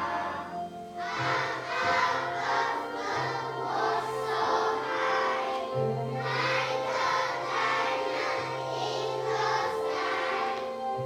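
A class of young children singing an English children's song together as a choir, over an instrumental accompaniment with long held bass notes.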